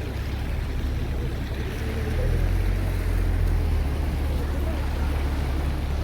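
Wind buffeting the camera microphone: a loud, steady low rumble, getting stronger about two seconds in, with faint voices underneath.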